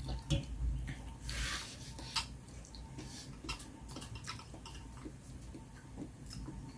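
Scattered small clicks and taps of eating utensils against dishes during a meal, with a short noisy rush about a second and a half in.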